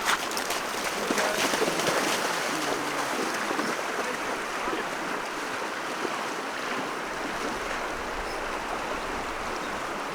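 A river's current running steadily, an even rush of flowing water.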